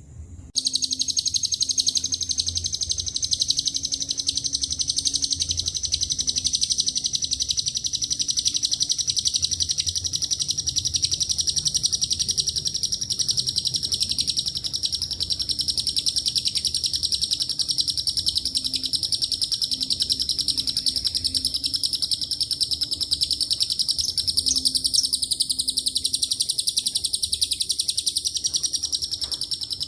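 Lovebird's long, unbroken, rapid high-pitched chattering trill ('ngekek panjang'), starting after a brief gap and running on without a pause.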